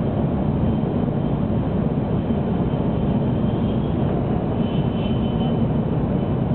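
Steady running noise inside the passenger cabin of a 700 series Shinkansen train at speed: an even low rumble that holds a constant level, with a faint high whine above it.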